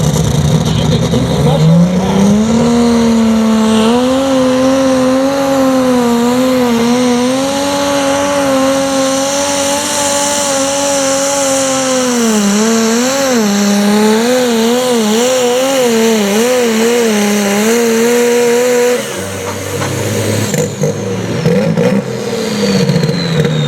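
Light limited super stock pulling tractor's turbocharged diesel engine revving up about two seconds in and held at high revs under load, its pitch wavering and dipping repeatedly as the tractor pulls the sled. Just after nineteen seconds the revs drop off as the run ends.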